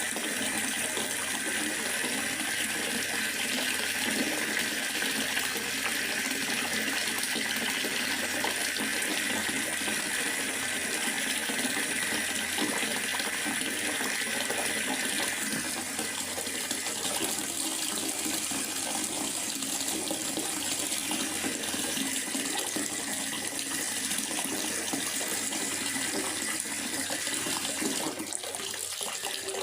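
Steady rain falling in a forest: an even, continuous hiss of rainfall that eases slightly about halfway through.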